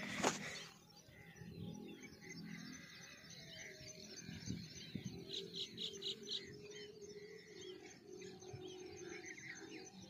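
Small birds chirping and calling in the open, with a quick run of about five evenly spaced notes some five seconds in. A brief louder sound is heard right at the start.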